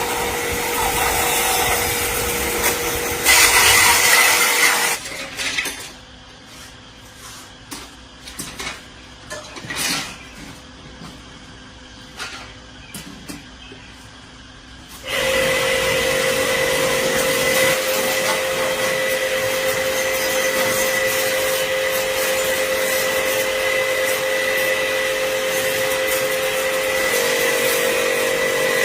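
An electric power tool's motor running steadily with a grinding, abrasive noise, then stopping for about ten seconds of scattered clicks and knocks from handling parts, then running steadily again through the second half.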